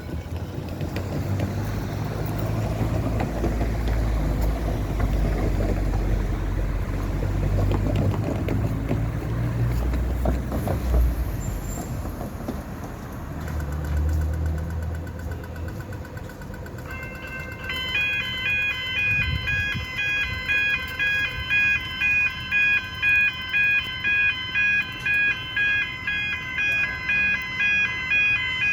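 Low rumble of a train or tram passing for the first dozen seconds, then, about eighteen seconds in, railway level crossing warning bells start ringing at a quick, even beat, signalling an approaching train.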